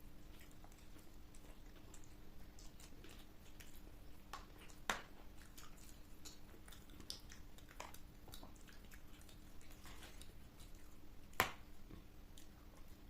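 People chewing and crunching panipuri, small wet crackles and mouth sounds throughout, with two sharp clicks, one about five seconds in and one near the end.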